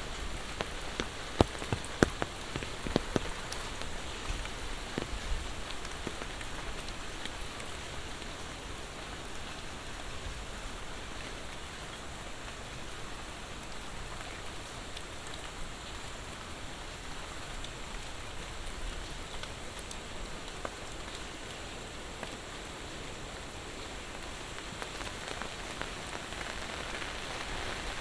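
Steady monsoon rain falling, with sharp, close raindrop hits ticking in the first few seconds.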